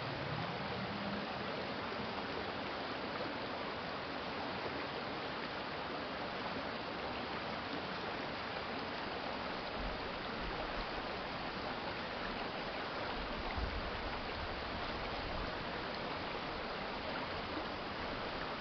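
A small urban stream's water flowing with a steady, even rushing. A couple of brief low rumbles come in around the middle.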